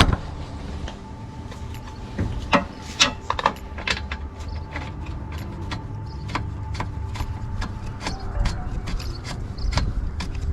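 Light metallic clicks and clinks of a new spark plug being fitted into a two-stroke tiller engine's plug hole, with a few sharper clicks about two and a half to three and a half seconds in and lighter irregular ticks after.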